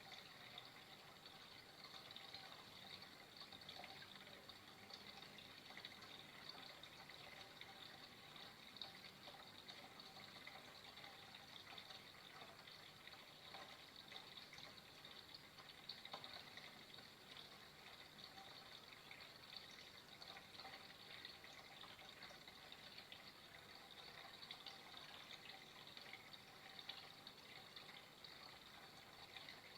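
Faint, steady running water, a continuous rush with small irregular splashes and drips.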